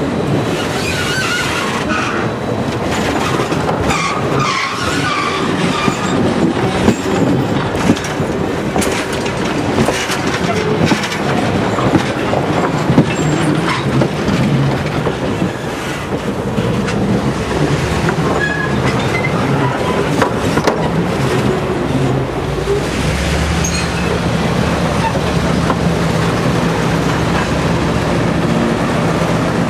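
Passenger coaches rolling past close by, their wheels clicking over the rail joints, with brief faint wheel squeals in the first few seconds. Near the end a steady low diesel engine hum comes in as the locomotive at the rear of the train draws up.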